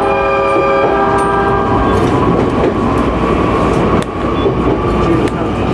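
Electric commuter train running along the line with steady wheel and rail noise. A short horn blast of several tones at once sounds at the start and lasts about a second.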